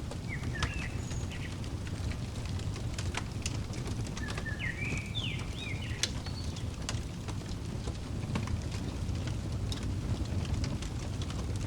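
Fireplace crackling: scattered sharp pops over a low steady rumble. Short bird chirps come in just after the start and again about five seconds in.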